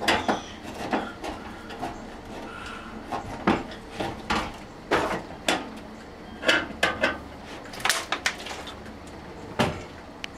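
Irregular wooden knocks and clatter from demolition work, boards and panels being pried loose and handled, with a few louder bangs.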